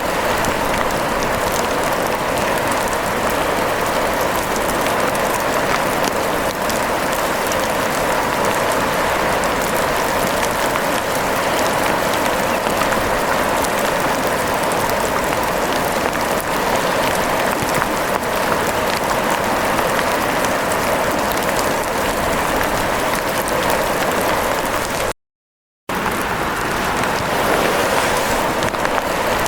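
Steady rain falling, a dense even hiss of many small drops. It cuts out completely for under a second near the end, then resumes.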